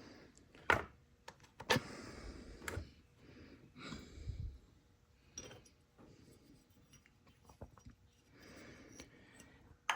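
Scattered light clicks, knocks and short scrapes of small chainsaw parts, such as the air filter cover and its knob, being handled and turned over.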